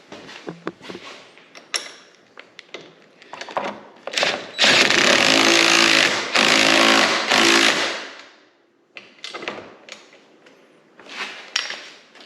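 Impact wrench with a 10 mm socket hammering a nut tight in three short bursts about halfway through, the longest first. Clicks and knocks of the socket and tools come before and after.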